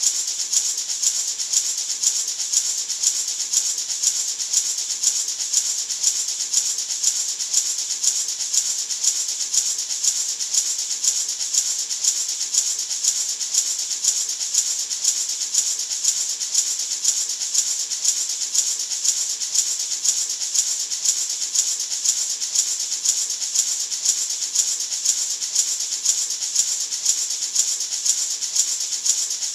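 Gourd maraca shaken steadily in an even, repeating rhythm, its seeds making a bright, hissing rattle.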